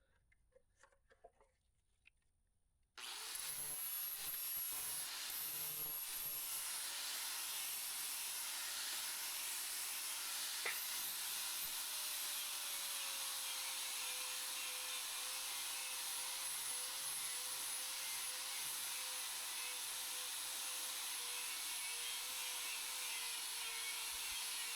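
Power grinder fitted with a sanding pad starting up about three seconds in and sanding the corners and edges of welded steel plate: a steady scraping hiss over a motor whine that sags slightly in pitch as it is pressed in.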